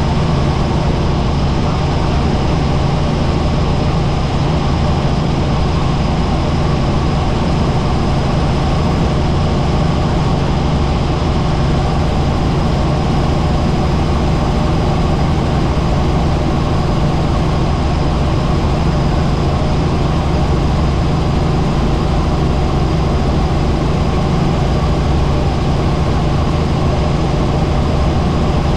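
Helicopter in flight: the engine and rotor make a loud, steady drone that holds without change, with a faint steady high whine above it.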